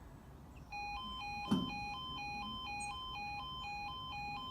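Level crossing two-tone yodel alarm sounding, a lower and a higher tone alternating evenly about twice a second, starting just under a second in. A single thump is heard about a second and a half in.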